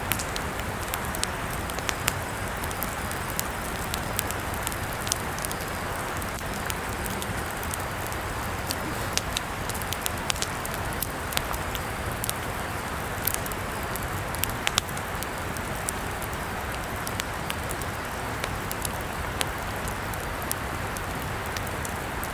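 Campfire burning: a steady hiss of flames with irregular sharp crackles and pops from the burning wood.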